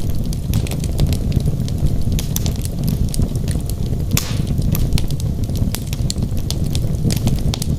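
Wood logs burning in a fireplace, crackling with frequent sharp pops over a steady low rumble of the flames. A longer hissing pop comes about four seconds in.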